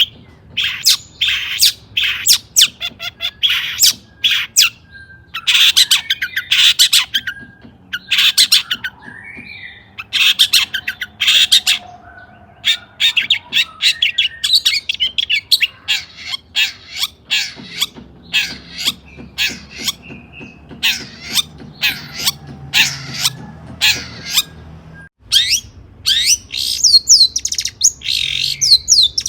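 Long-tailed shrike (cendet) singing in repeated bouts of rapid, harsh, scratchy notes, the song packed with mimicked calls. Quick rising-and-falling whistled notes come in near the end.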